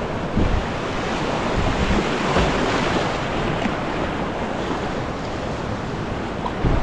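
Whitewater of a steep mountain creek rushing steadily over rapids, with wind buffeting the microphone.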